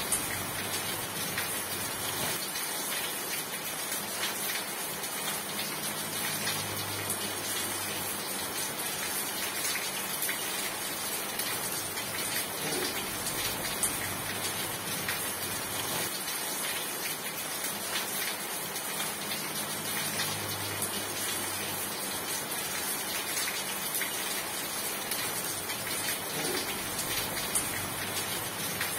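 Steady rain falling, an even hiss of many drops landing on surfaces with small individual drop taps through it.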